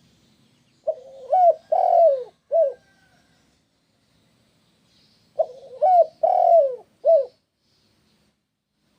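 Spotted dove (tekukur) cooing: two phrases, each of four coos with the third the longest, about four and a half seconds apart.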